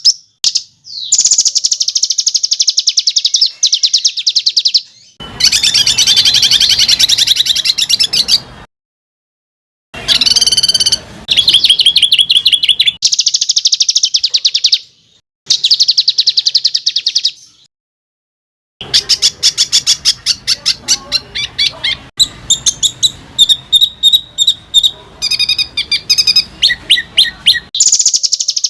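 Songbird singing tightly packed, harsh rolling trills of rapid repeated notes ('roll rapat kasar'), in bursts of several seconds broken by sudden short silences.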